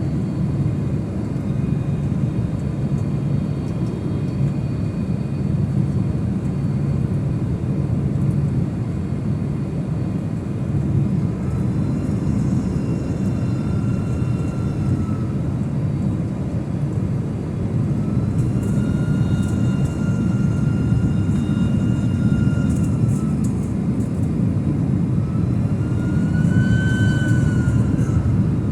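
Jet airliner cabin noise: a steady low rumble with engine whine that swells and fades three times in the second half.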